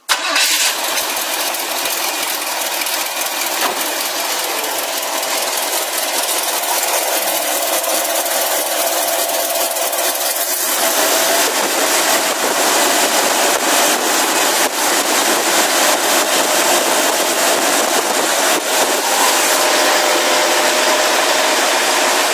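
GM 350 small-block V8 crate engine in a 1960 Pontiac Parisienne running steadily, heard from the open engine bay. About halfway through the sound changes, growing fuller and lower with a steady tone in it.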